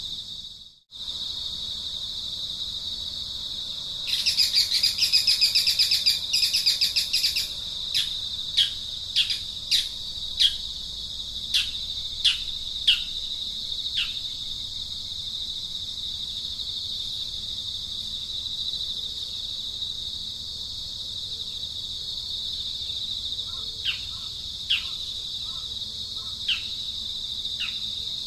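A steady high insect drone, with a bird calling over it: a rapid chattering trill about four seconds in, then a string of short falling whistles, and a few more near the end. The sound cuts out for a moment just after the start.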